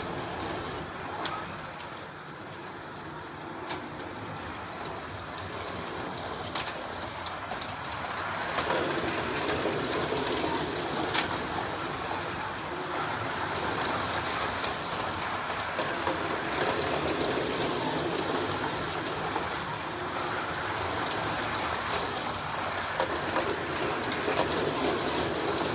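Carrera Digital 1:32 slot cars running around a plastic track: a steady whirring, rattling run of motors and tyres that grows louder about eight seconds in, with a few sharp clicks.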